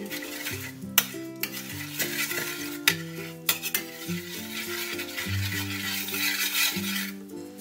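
A metal spoon stirring and scraping barbecue sauce thinned with water in a hot stainless-steel frying pan, the sauce sizzling, with a few sharp clinks of spoon on pan. Background music with held low notes plays underneath.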